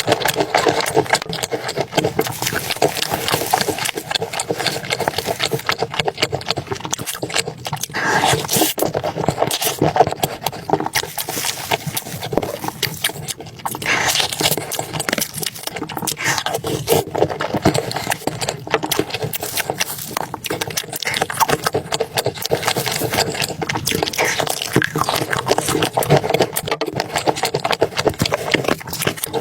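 Close-miked eating sounds: someone chewing and slurping soup, with a constant run of small wet clicks and smacks.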